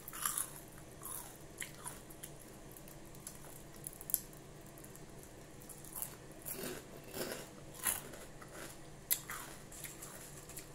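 Chicharon (deep-fried pork rind) being bitten and chewed close to the microphone, open-mouthed, with irregular sharp crunches every second or so.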